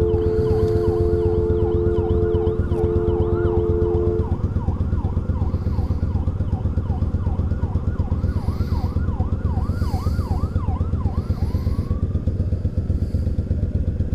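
Ambulance siren yelping in quick rising-and-falling sweeps, about two a second, then sliding into a slower rising wail near the end. Its steady two-tone horn blares in two long blasts over the first four seconds. Underneath, the Yamaha V-Star 1100's V-twin engine runs steadily.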